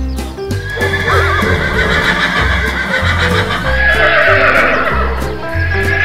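A horse whinnying sound effect: a long, wavering neigh that starts about a second in. It plays over background music with a steady bass beat.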